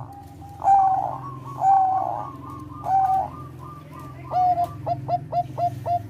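Zebra dove (Bangkok perkutut) cooing: three drawn-out coos, then, from about four seconds in, a quick run of short staccato coos at about three or four a second.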